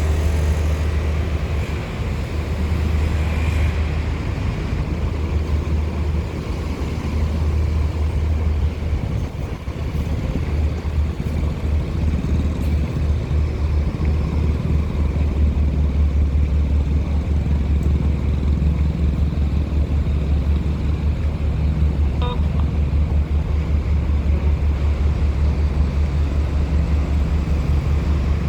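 Heavy diesel engines running with a steady low drone.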